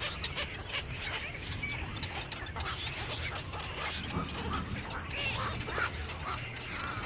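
Many birds chirping and calling over one another in a dense, continuous chatter, over a steady low hum.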